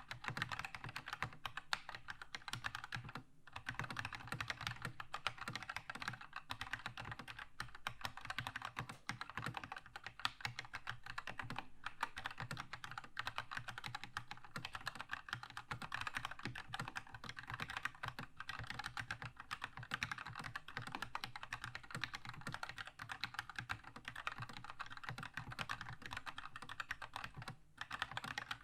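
Continuous fast typing on a Keychron K2 mechanical keyboard with red (linear) switches, a dense stream of key presses with only a couple of brief pauses.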